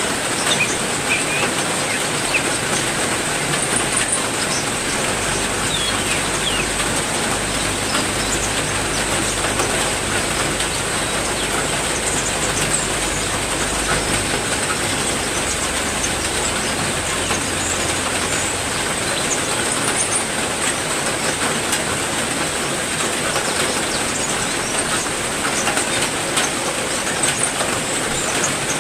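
Heavy rain falling steadily, with short bird chirps here and there over it and a steady high-pitched tone running underneath.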